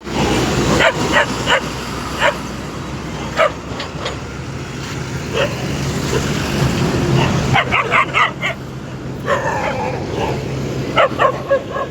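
Dog barking and yipping in short, irregular bursts over a steady low hum.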